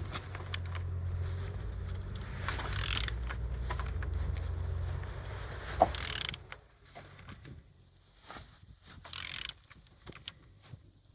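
Engine being turned over by hand with a tool on the crankshaft: mechanical clicking and scraping as it rotates, which turns freely, a sign the engine is not seized. A steady low hum runs under it and stops about six seconds in.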